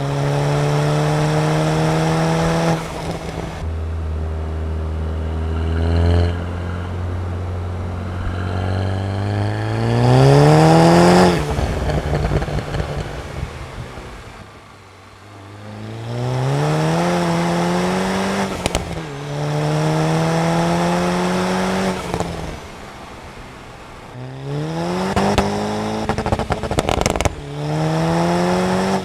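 Stage 2 tuned VW Golf MK6 GTI's turbocharged 2.0-litre four-cylinder accelerating hard in repeated pulls through the gears. The pitch climbs and drops back at each shift, with a quieter lull as it eases off about halfway through. A few sharp cracks come near the end.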